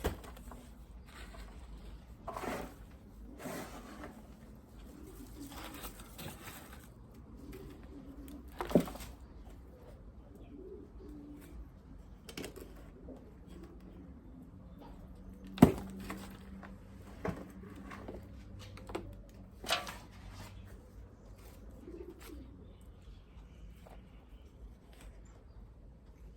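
A dove cooing softly at intervals, with scattered sharp knocks and rustles of hands digging through soil and handling potatoes; the loudest knocks come about a third of the way in and just past the middle.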